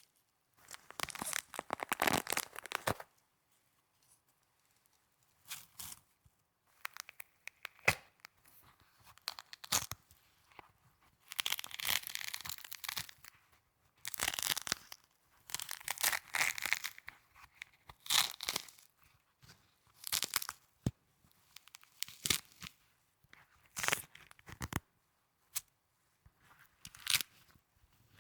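Snow crunching in a string of separate crisp bursts, each a second or two long, with short pauses between.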